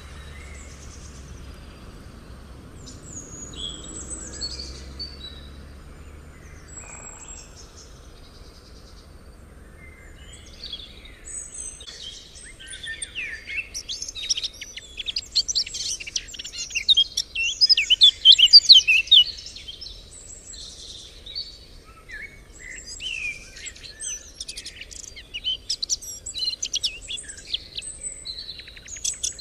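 Songbirds chirping and singing: a few scattered calls at first, then a busy stretch of rapid, overlapping chirps from about halfway through, thinning out and picking up again near the end.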